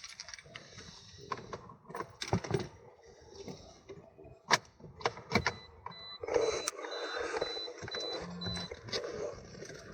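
Scattered clicks and rattles of a car key and controls being handled, with a run of short, evenly spaced high-pitched beeps about six to nine seconds in.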